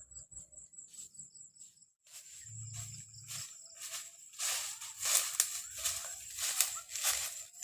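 A steady high insect drone in the forest, then from about halfway through, loud rustling crunches about twice a second, like footsteps through dry leaf litter.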